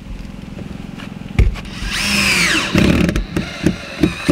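Power drill driving a long screw through the plywood top down into a wooden leg: the motor runs, its whine falling in pitch as the screw bites, followed by a run of short knocks near the end.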